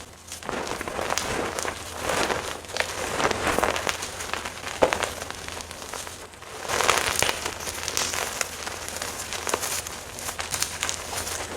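Blocks of gym chalk being crushed and crumbled, a dense crackly crunching full of small snaps. A brief lull about six seconds in, then a louder bout of crunching.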